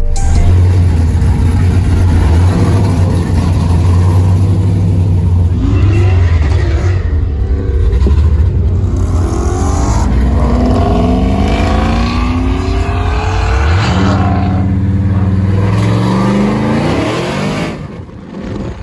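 Cammed 5.3-litre LS V8 in an S10 pickup driving, its engine note rising in pitch through several pulls of acceleration, then dropping in level briefly near the end.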